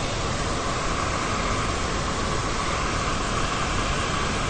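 Steady rushing noise, unchanging throughout, with no distinct events.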